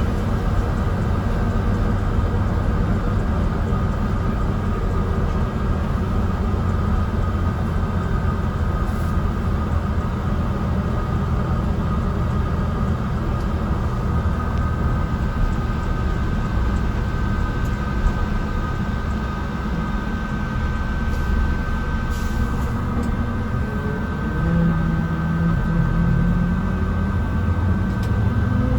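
Inside a Mercedes-Benz O307 city bus under way: a steady low engine and road rumble, with a thin steady whine above it. Near the end the engine note shifts and climbs.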